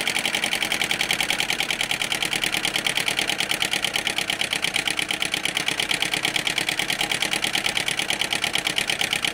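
James Maiwald flame-eater (vacuum) model engine running with a rapid, even mechanical clatter, many beats a second.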